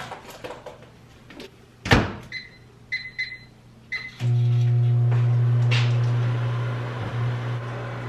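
Microwave oven being started: a door shut with a thud about two seconds in, four or five keypad beeps, then the oven switches on with a sudden, steady hum.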